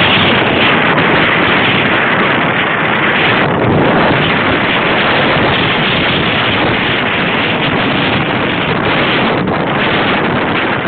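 Steady, loud wind noise rushing over the microphone of an ear-worn camera on a moving bicycle.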